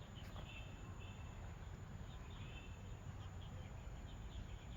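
Faint outdoor background: a low steady rumble with scattered short, high chirps from small birds.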